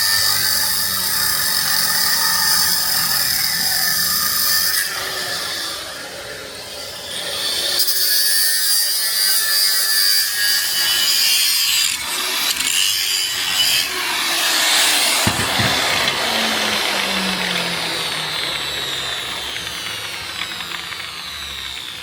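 Power tool grinding or sanding metal in several passes, broken by short pauses. In the second half the motor is switched off and winds down, its pitch falling steadily as it slows.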